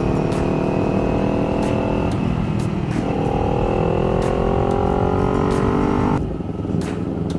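Motorcycle engine accelerating hard under wind rush, its note rising steadily. About two seconds in the note drops and then climbs again, as at an upshift. Near the end the engine note cuts off suddenly.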